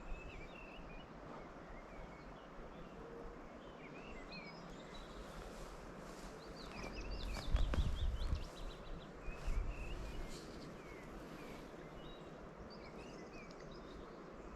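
Songbirds chirping and calling in short scattered phrases over a steady outdoor background. About halfway through comes a louder low rumble with a few knocks for two or three seconds.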